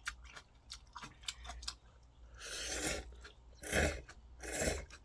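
A person eating instant ramen noodles, with a run of small mouth and chewing clicks, then three short hissy noises two to five seconds in.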